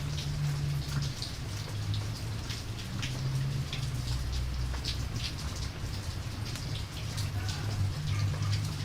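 Rain and campfire ambience: steady rain with a low rumble underneath and scattered short, sharp ticks.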